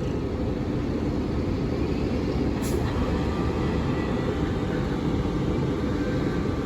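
Class 450 Desiro electric multiple unit pulling away from the platform: a steady low rumble with a faint whine from the traction motors that rises slightly in pitch as it gathers speed.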